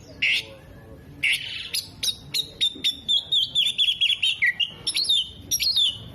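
Oriental magpie-robin (kacer) singing: a few separate sharp, high notes at first, then a fast run of warbling, chattering notes in the middle, falling briefly in pitch.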